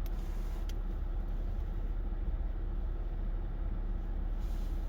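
Steady low background rumble with a faint constant hum, and a single light click a little under a second in.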